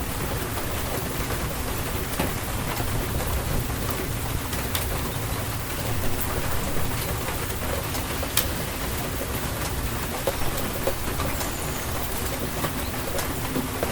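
Steady rain falling, with scattered sharp clicks of single drops hitting a hard surface.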